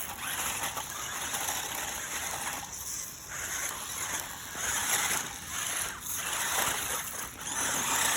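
Water splashing and rushing, swelling and easing about once a second.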